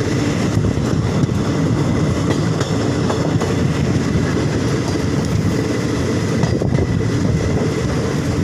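Passenger train running at speed, heard from the open door of a moving coach: a loud, steady rumble of wheels on the rails.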